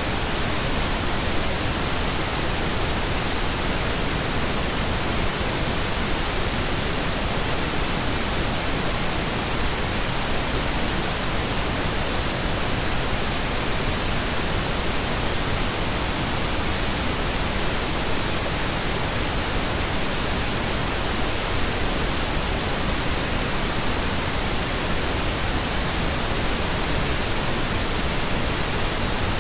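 Steady pink noise: an even, unchanging hiss spread across the whole range, with no breaks or changes.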